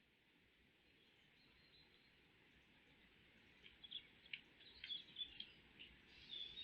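Faint high-pitched bird chirps, a quick run of short calls in the second half, over a steady faint hiss.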